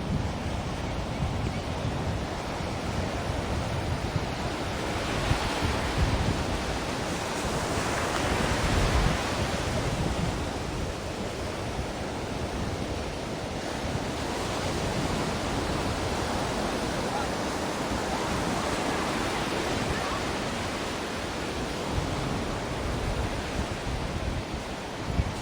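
Ocean surf: a continuous rush of breaking waves that swells and eases every several seconds.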